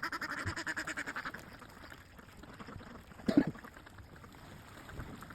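Wild ducks quacking in a fast, rapid run for about the first second and a half. A single short, louder sound follows a little over three seconds in.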